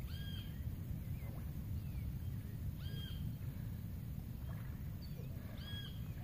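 A bird gives the same short arched call three times, about three seconds apart, with a few faint chirps between, over a steady low rumble.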